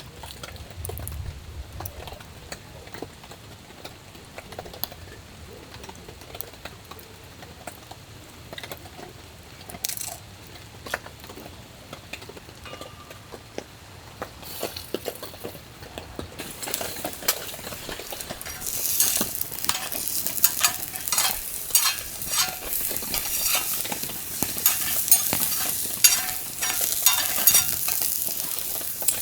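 Wood campfire crackling and sizzling, with scattered pops at first, then louder and busier with many sharp pops from about halfway through.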